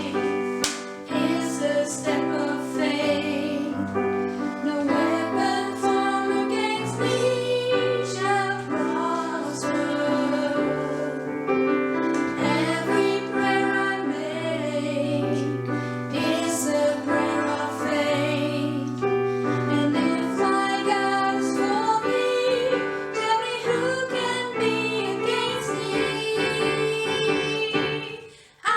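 A worship song: singing voices over an instrumental backing with a steady beat. The music fades out just before the end and starts again right after.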